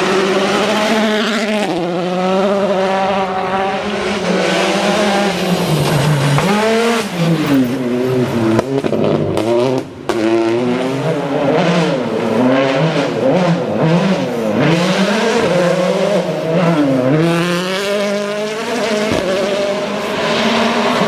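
2016 World Rally Cars' turbocharged 1.6-litre four-cylinder engines revving hard, the pitch climbing and falling again and again through gear changes and braking. Several short sharp cracks come in between.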